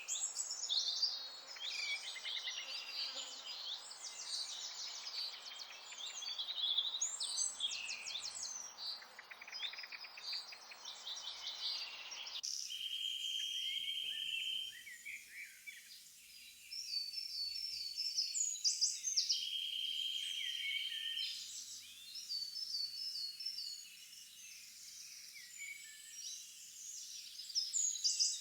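Nature-sounds recording of many songbirds chirping and singing. About twelve seconds in the low background hiss drops out suddenly, and a steady trill then comes twice among the chirps.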